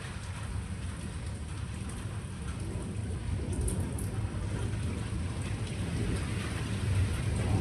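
Steady rain falling, with a low rumble of thunder that builds louder toward the end.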